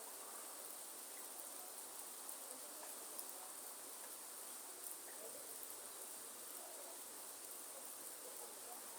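Faint steady rain in a forest, with a continuous high-pitched insect chorus running through it and a few scattered drip ticks.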